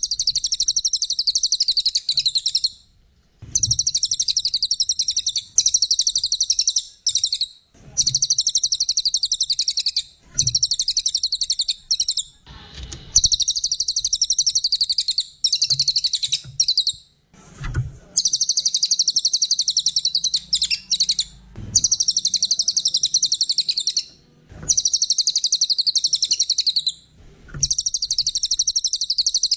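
Cililin songbird singing in long bouts of very rapid, high-pitched chattering trills, each about two to four seconds long, with short pauses between them.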